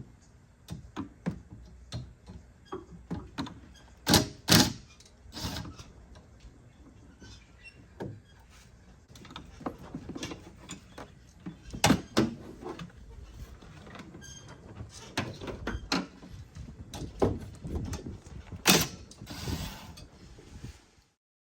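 Irregular clicks, knocks and clunks of hand tools and engine parts being handled while the engine is stripped for injector removal, with a few louder knocks and short scrapes among them; no engine running.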